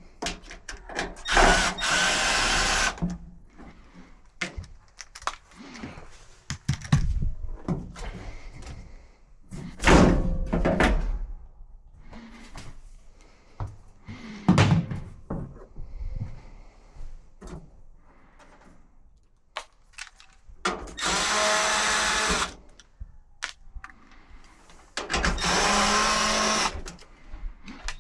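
A power drill running in three bursts of a second or two each, once about a second in and twice near the end, with knocks and clatter of parts being handled between them.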